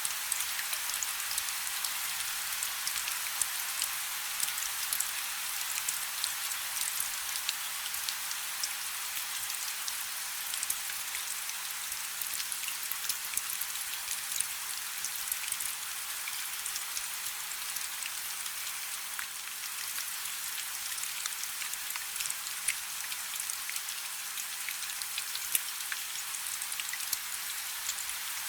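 Light rain falling steadily: an even high hiss of rain, scattered with many small, crisp drop ticks.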